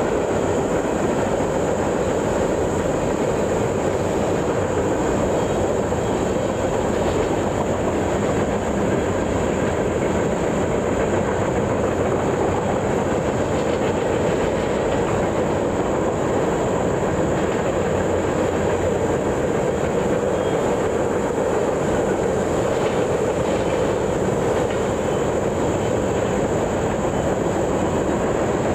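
Train rolling past with a steady noise of steel wheels on the rails, unchanging throughout.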